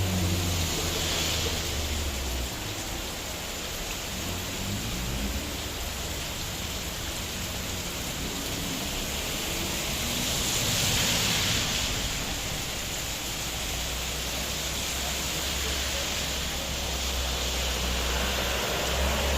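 Heavy rain falling, a steady even hiss. A vehicle engine's low hum fades out in the first couple of seconds, and a low rumble builds again in the second half.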